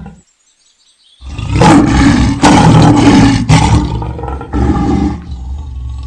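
A large animal roaring loudly, a rough call in several pulses lasting about four seconds, starting after about a second of silence.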